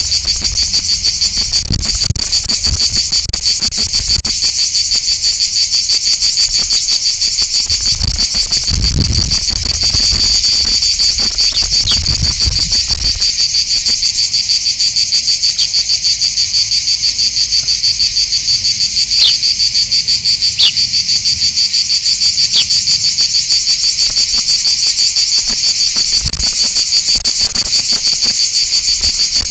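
Loud, steady chorus of insects, a high rapid trill that never lets up, with a few short high chirps in the middle and some faint low thumps.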